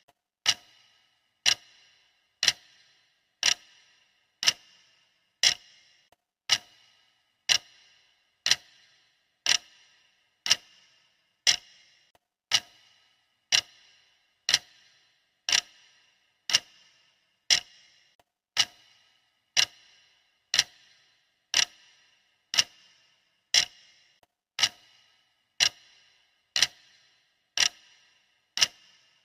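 Clock ticking steadily, one sharp tick a second, each with a brief ring.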